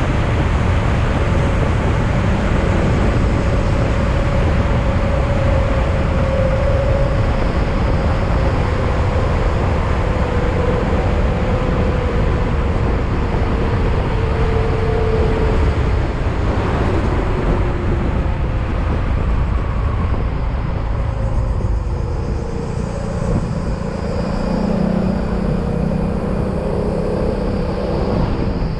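Yamaha XMAX maxi-scooter's single-cylinder engine running under way, with heavy wind and road noise. The engine note slowly falls through the first half and settles lower about twenty seconds in.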